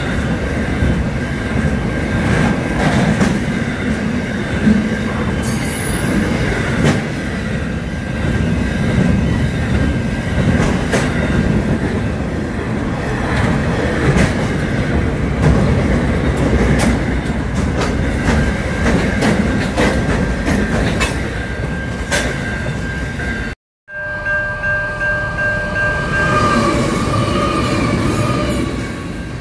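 Intermodal container freight train rolling past at speed: steady rumble and wheel clatter under a thin, steady wheel squeal. Near the end the sound breaks off suddenly, then a diesel locomotive hauling passenger cars passes, with several held tones for about two seconds.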